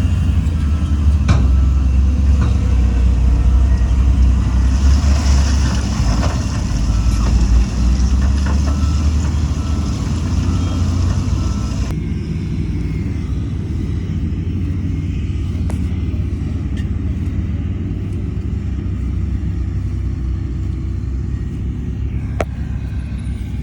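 Heavy diesel earthmoving machinery running steadily with a deep engine drone, a brief hiss about five seconds in and a few clicks. About twelve seconds in the sound changes abruptly and turns duller.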